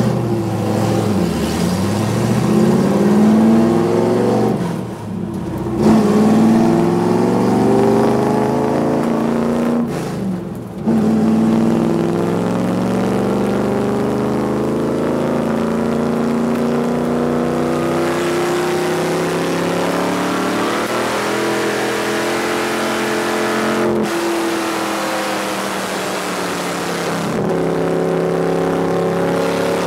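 Stock car's V8 engine accelerating hard from the start, its pitch climbing through the gears with two brief dips as it shifts, about 5 and 10 seconds in. It then runs at a steady high pitch at speed.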